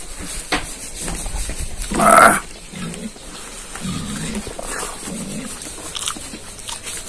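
Close-miked eating sounds of a man chewing a mouthful of curry meat and rice, with wet mouth smacking and short low hums every second or so. A louder noisy sound comes about two seconds in.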